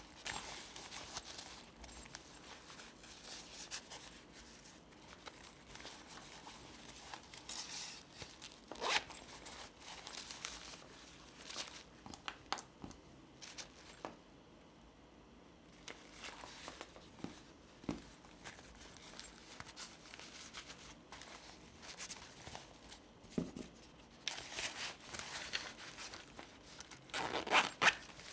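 Unboxing handling noise: packaging and the DJI Mic Mini kit's parts being handled, with scattered clicks and taps and longer stretches of rustling, the longest about 24 seconds in and running into the end.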